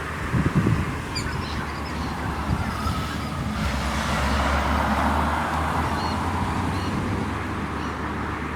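A vehicle passing on the street, its rumble and tyre noise swelling through the middle and easing off, with a few faint bird chirps over it.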